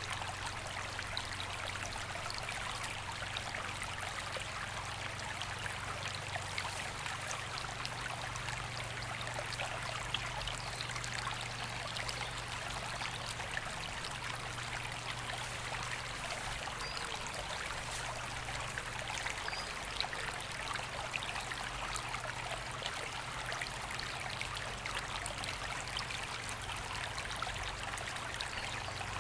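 A river flowing steadily, a continuous even rush of running water.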